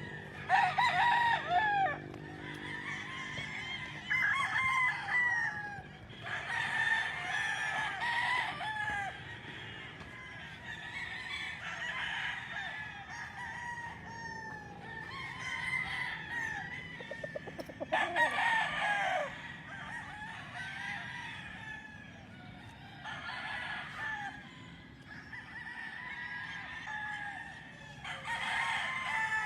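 Several roosters crowing one after another, overlapping, with hens clucking between the crows. The loudest crows come about a second in and about 18 seconds in.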